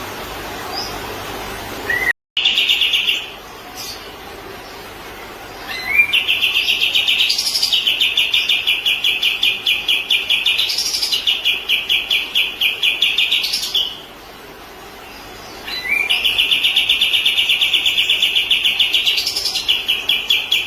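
A kapas tembak songbird singing its rapid, high trills, each opening with a short rising note: a brief one, then a long one of about eight seconds, then another of about five.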